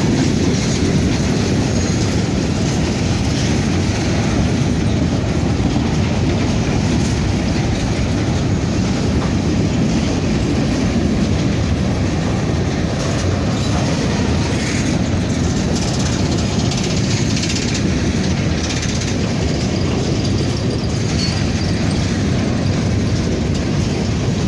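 Loaded covered hopper cars of a freight grain train rolling past: a steady, continuous noise of steel wheels running on the rails.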